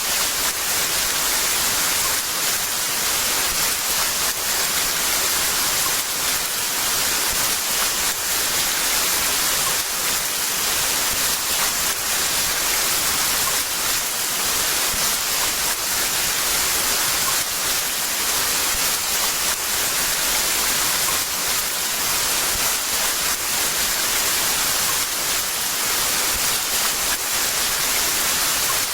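Heavy rain pouring steadily, an even dense hiss without breaks.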